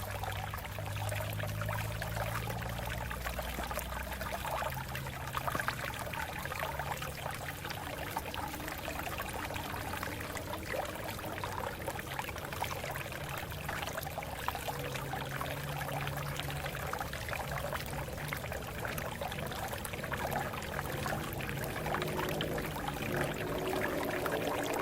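Water flowing and splashing over rocks, a steady babbling and gurgling.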